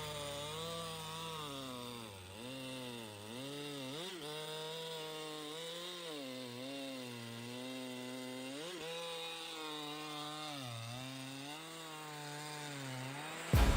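An engine revving up and down over and over, its pitch dipping and climbing every second or two, as a heavy truck stuck in deep mud strains to pull free.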